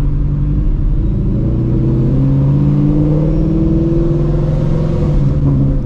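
Procharged Ford Shelby GT350's 5.2-litre flat-plane-crank V8 running at low speed; its note rises gently as the car accelerates, then eases back near the end.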